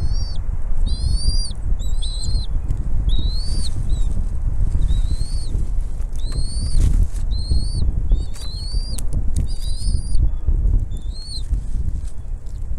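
Bald eagle calling: about a dozen high, arched chirping notes, roughly one a second, over a heavy low rumble.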